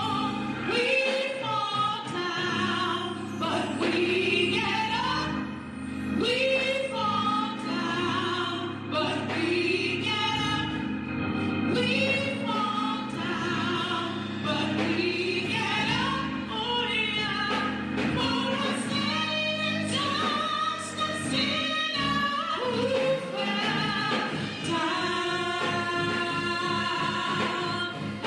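Gospel music: singing with wide vibrato over sustained low accompaniment, playing without a break.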